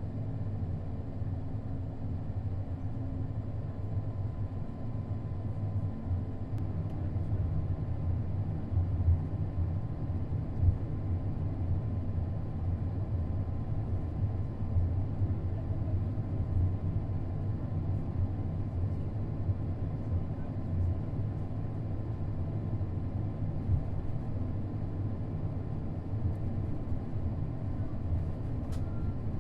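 Cabin noise of an Airbus A220 taxiing: a steady low rumble from its Pratt & Whitney PW1500G engines and the airframe, with a faint steady high tone running through it.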